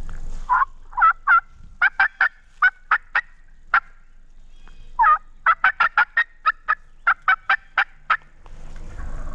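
Turkey calling in two runs of short, sharp yelps and cutting notes, each run opening with a longer falling note.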